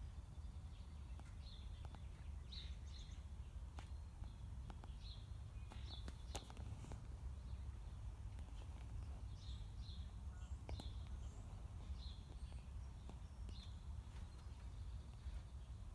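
Faint, repeated short bird chirps over a low steady rumble, with a few scattered clicks.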